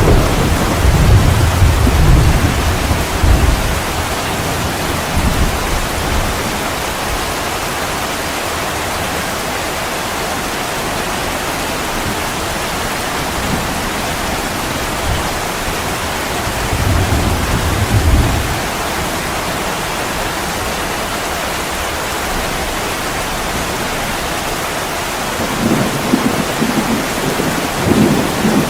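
Heavy rain pouring steadily on a window, with low rolls of thunder rumbling in the first few seconds, again a little past the middle, and near the end.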